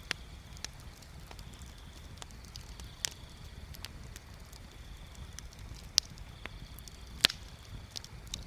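Bonfire crackling: irregular sharp pops and snaps over a low steady rumble, the two loudest pops about six and seven seconds in.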